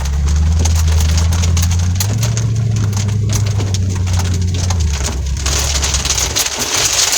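Heavy rain drumming on a vehicle's roof and windshield from inside the cabin, over the low drone of the vehicle. The drone rises about two seconds in and fades out around six seconds, while the rain's hiss grows stronger near the end.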